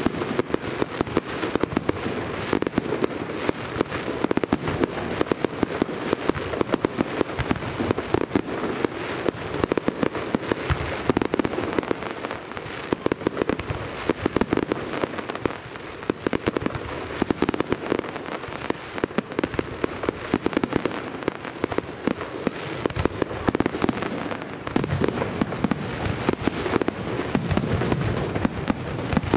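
Aerial fireworks display: shell bursts and crackling stars going off in rapid succession, many sharp bangs a second without a break.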